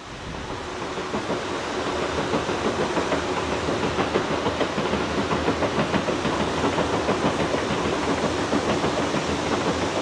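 Six-car JR Kyushu 787 series electric limited express running over a railway bridge: wheel-on-rail rumble swells over the first two seconds, then holds steady with a fast, uneven clatter.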